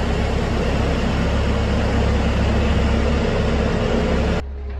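Engine running steadily with a heavy low rumble and a faint steady hum. It cuts off abruptly near the end.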